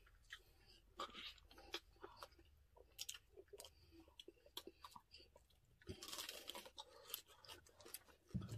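Close-miked chewing and crunching of crispy roast pig skin from a lechon pig's head, with many short crackles and wet mouth clicks. A denser stretch of crunching comes about six seconds in.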